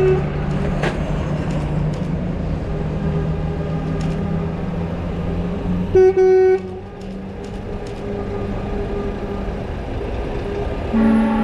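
Truck engines running in a convoy, with a loud truck horn toot about six seconds in, broken once briefly, and a second, lower horn starting near the end.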